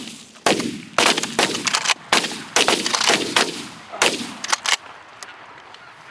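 A volley of shotgun fire from several hunters' shotguns: about a dozen sharp shots in quick succession over nearly five seconds, then the shooting stops.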